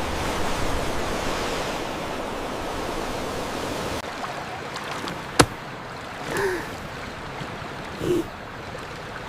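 A steady rushing noise like flowing water or surf, which drops away after about four seconds. Then comes a single sharp click, followed by a couple of short, faint chirps.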